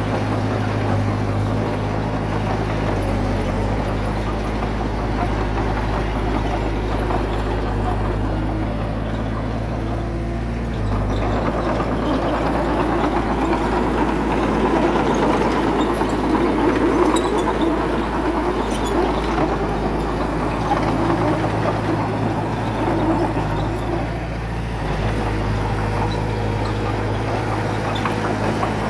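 Heavy diesel engine of earthmoving machinery running steadily. From about eleven seconds in to about twenty-four seconds, a louder, rougher sound rises over it, then the steady running returns.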